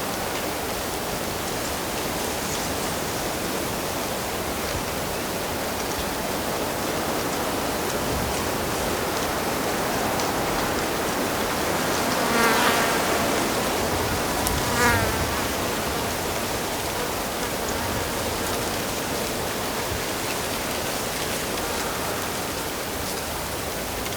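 Steady rush of flowing stream water, with a flying insect buzzing past twice, briefly, about halfway through.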